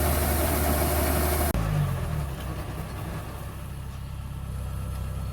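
Farm machine engine running steadily. About a second and a half in, the sound cuts abruptly to a quieter, lower engine hum.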